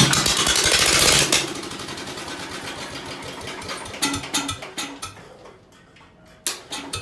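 Old Ford engine on the starter catches and runs loudly for about a second and a half, then sputters down and dies; the starter cranks it again near the end. It fires but won't keep running, which the owner puts down to a badly out-of-tune carburettor he thinks is running way too lean.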